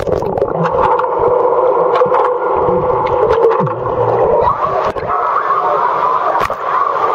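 Muffled, steady rush of water heard with the microphone submerged, with a dull wavering undertone.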